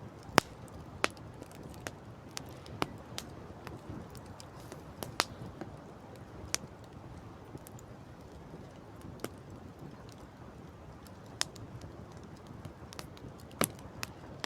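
Wood campfire crackling, with sharp irregular pops, a few louder than the rest, over a steady rush of wind and sea.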